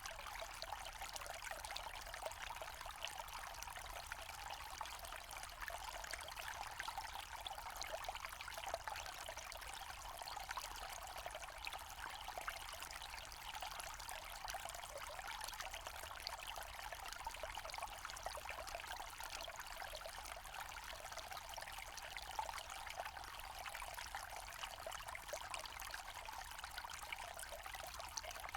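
Small forest stream trickling and splashing steadily over stones.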